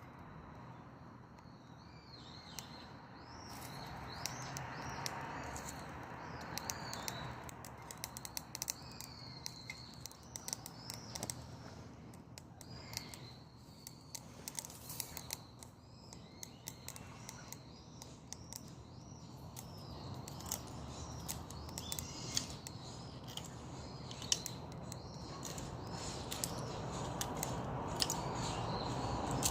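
Dead perilla branches crackling and popping as they burn in a Solo Stove wood stove, over a low steady rush of flame that grows louder near the end. Birds chirp in the background.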